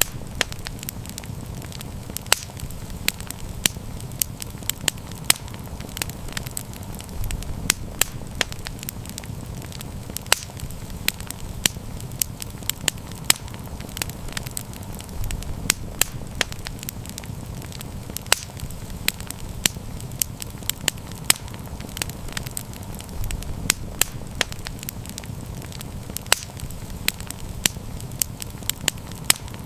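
Wood fire crackling, with frequent sharp irregular pops and snaps over a steady low rumble of burning.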